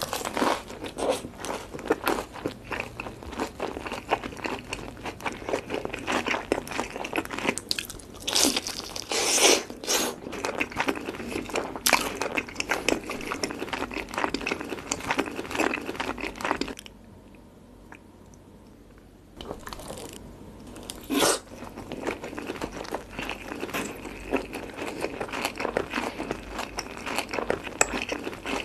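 Crunching and chewing of sauce-coated fried chicken, close to the microphone, with dense crackly bites. It eases off for about two seconds a little past halfway, then starts again with one loud crunch.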